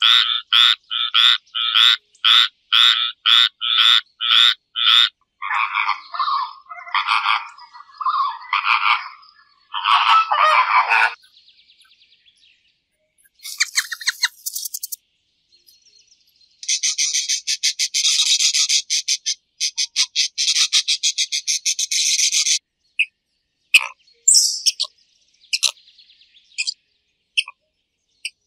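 A frog calling in a fast series of short croaks, about three a second, then a slower run of lower calls. Later come a brief high squeak, a long buzzing trill and scattered short chirps.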